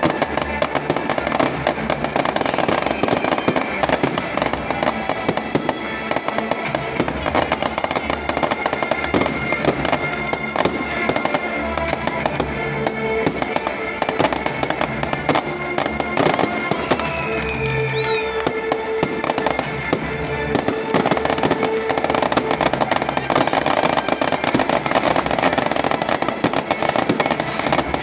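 A large bonfire crackling and popping continuously, with many sharp pops a second, over music playing in the background.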